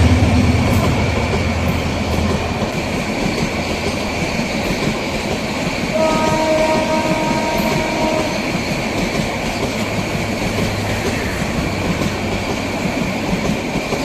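A Bangladesh Railway train running past: a deep locomotive engine drone fades over the first couple of seconds, then the carriages rumble and clatter on the rails. About six seconds in, the train's horn blows once for about two seconds.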